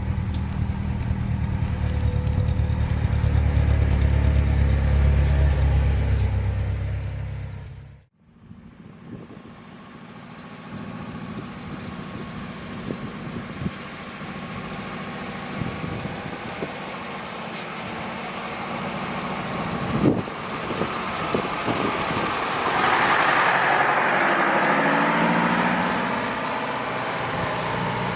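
Heavy truck engine running loud and deep, then fading away about eight seconds in. After a cut, a quieter outdoor background with scattered knocks, and another truck engine growing louder near the end.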